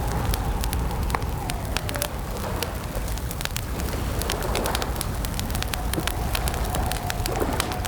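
Campfire crackling, with frequent sharp pops over a steady low rumble. A faint wavering tone runs through it.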